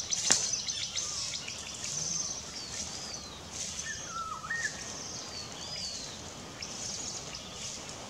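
Small forest birds calling: repeated short, high, downward-sliding chirps, with a lower, wavering call about four seconds in. A single sharp click sounds just after the start.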